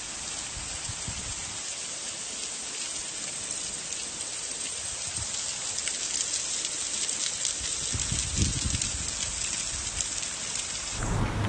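Steady downpour of rain: a dense, even hiss of countless drops striking surfaces.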